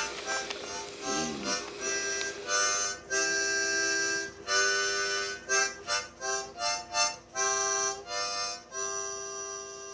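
Harmonica playing a short tune of chords and quick notes, ending on a long held chord.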